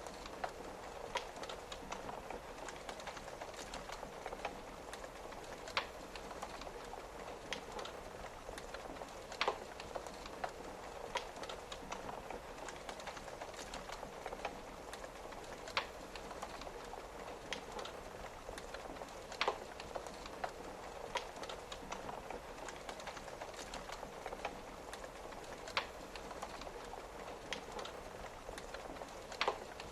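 Steady hiss of rain on a window, with a wood fire crackling over it in sharp pops every few seconds.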